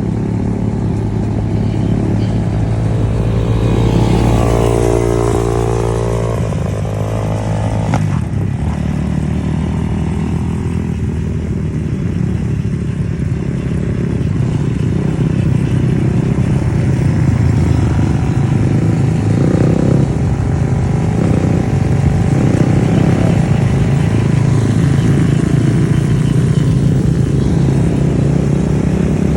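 Dirt bike engines running while riding, with a steady drone and a rise and fall in pitch about four to seven seconds in as a bike revs or passes.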